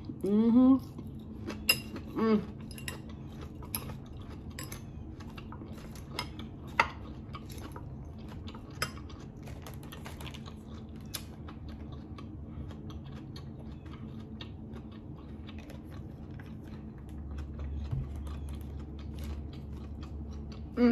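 Close-up eating sounds: chewing, with scattered sharp clicks of a metal fork against a glass salad bowl and plate. There are brief hummed voice sounds near the start.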